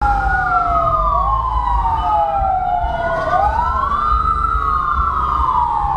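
Two or three emergency vehicle sirens wailing at once, their slow rising and falling tones out of step with each other, over a low rumble. The sound starts and cuts off suddenly.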